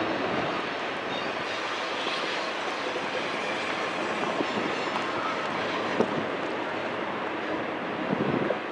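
Intermodal freight train of semi-trailers on flatcars rolling past: a steady noise of steel wheels on rail. A single sharp clack comes about six seconds in, and a short run of knocks comes near the end.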